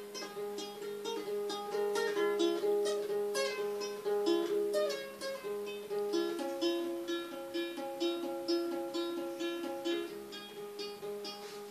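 Solo acoustic plucked-string instrument playing a song's instrumental opening: a steady pattern of picked notes ringing over a held low note, with a chord change about halfway through.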